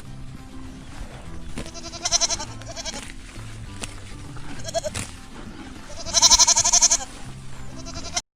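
A goat bleating four times, short calls and then a long, loud, wavering bleat near the end, over background music.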